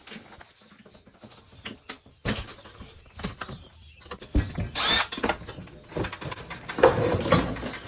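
Scattered clicks, knocks and rattles of TV parts being handled during disassembly, with busier handling about halfway through and near the end.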